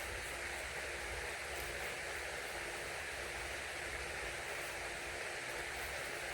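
Steady outdoor background hiss with a faint steady hum, no chainsaw running.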